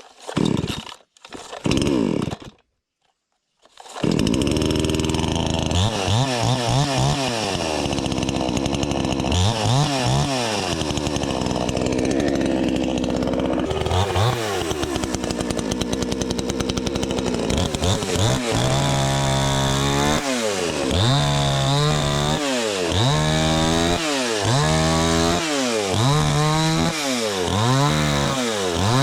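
Budget gas chainsaw (the Weimars) pull-started with a few tugs of the cord, catching about four seconds in. It then runs with its engine pitch rising and falling over and over, in quicker regular swells about once a second later on.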